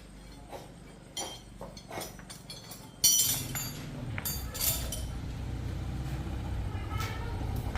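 A few light metallic clinks, then about three seconds in a small engine or motor starts with a loud burst and keeps running with a steady low hum.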